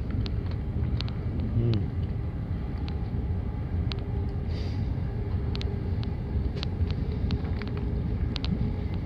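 Steady low rumble of a Class 800 passenger train running along the line, heard inside the carriage, with a steady hum and scattered sharp clicks.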